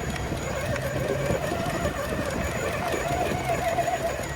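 Electric motor and geared drivetrain of a scale RC rock crawler running as it crawls, giving a wavering whine over a rapid clatter of small ticks.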